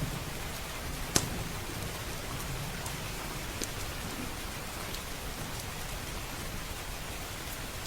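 Steady rain falling on a roof and windows, with a wood fire crackling in a fireplace: one sharp pop about a second in and a few fainter ticks later.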